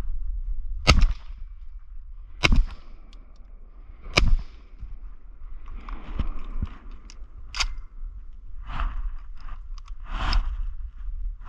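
Shotgun fired three times at flying ducks, the shots coming about a second and a half apart in quick succession.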